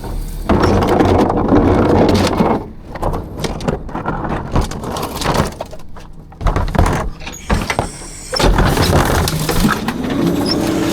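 Rear-loader garbage truck working a dumpster: loud clanking and squealing of the lifting and packing machinery, quieter in the middle, with a tone that rises and settles into a steady whine near the end.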